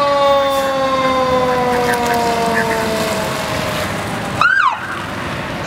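Emergency vehicle siren on a code 3 response: one long wail that falls slowly over about three seconds, a short whoop about four and a half seconds in, and another rise beginning right at the end. Steady vehicle noise runs underneath.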